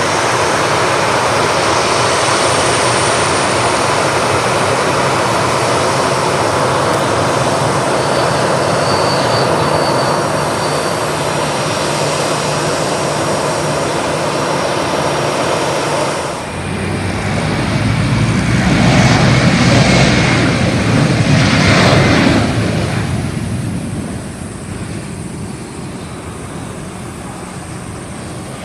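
Twin-engine jet airliner's engines running loud and steady with a faint high whine. About two-thirds of the way through the sound changes to a deeper rumble that swells and then fades away.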